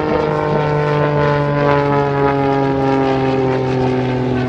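Pitts Special aerobatic biplane's propeller and 260-horsepower Lycoming piston engine droning in flight, its pitch falling slowly and steadily.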